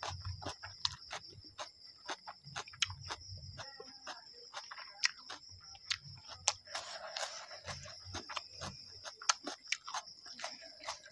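Close-up eating sounds: chewing chow mein with many wet, irregular mouth clicks and soft low thuds. A steady high-pitched tone sounds throughout.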